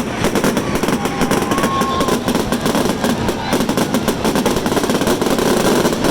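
Fireworks going off in a rapid, unbroken barrage of bangs and crackles, too many to count, at a loud, steady level.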